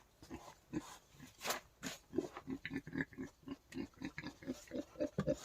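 Wild boar grunting in a quick run of short grunts, about four a second, starting about two seconds in, with a few sharp clicks before it.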